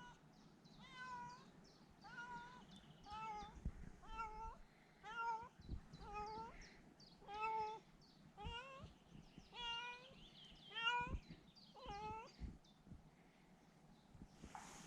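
Domestic cat meowing over and over, about a dozen short calls at roughly one a second.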